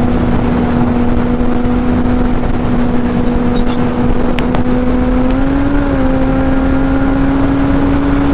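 Kawasaki Z800's inline-four engine running at a steady high-speed cruise, with heavy wind rush on the microphone. The engine note rises slightly about five seconds in and then holds.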